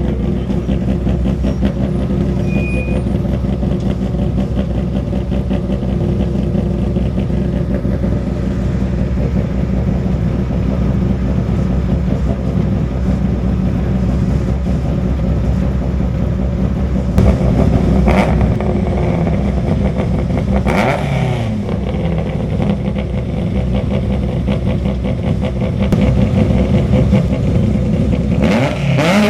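Rally car engines: a steady engine note that runs for a long stretch, then loud revving about two thirds of the way through with the pitch falling as a car goes by, and a rising rev near the end.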